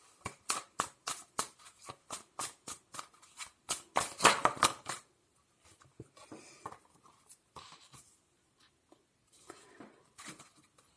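Tarot cards being shuffled and handled, a quick run of crisp snaps for about five seconds, then fainter scattered taps and rustles.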